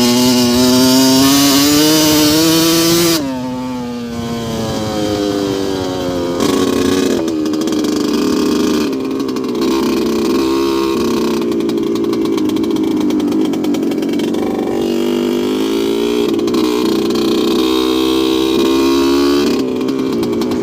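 2002 Yamaha YZ125's two-stroke single-cylinder engine revving, held high and climbing for about three seconds, then dropping off sharply. After that the revs rise and fall again several times.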